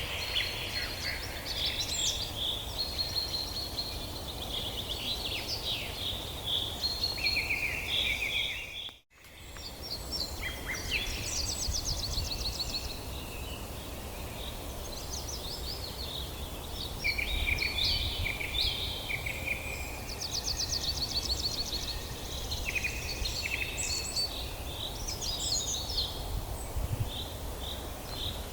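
Several songbirds singing and calling, a dense mix of chirps, rapid trills and whistled phrases, over a steady low background noise. The sound drops out briefly about nine seconds in.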